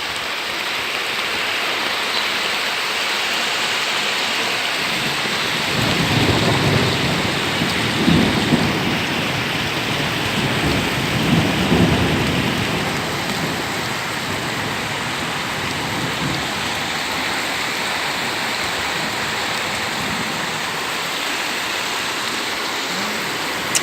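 Heavy rain pouring steadily, with low rumbles of thunder rolling through between about six and twelve seconds in.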